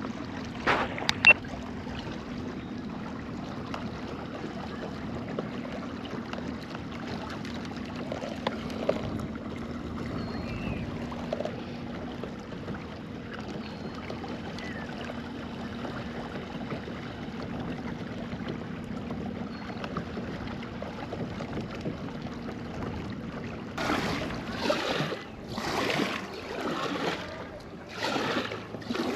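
Kayak on the water: a steady low hum with water and hull noise, and a few sharp clicks about a second in. Near the end comes a run of paddle strokes splashing about once a second.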